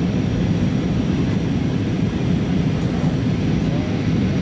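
Steady rumble of an Airbus A320 cabin in flight on approach to land, engine and airflow noise with no change in level.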